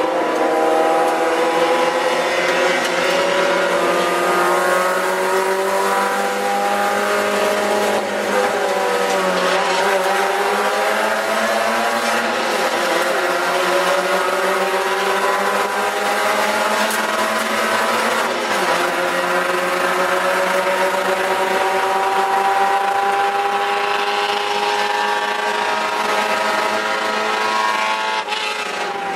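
A 1994 Spec Miata's 1.8-litre four-cylinder engine under hard acceleration, heard from inside the cabin. The pitch climbs slowly, drops around eight to ten seconds in and briefly again around eighteen seconds in, then climbs steadily through most of the rest.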